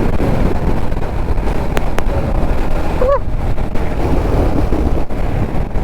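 Kawasaki Z900 inline-four engine running at road speed, mixed with heavy wind rush on the helmet microphone. A brief tone rises and falls about three seconds in.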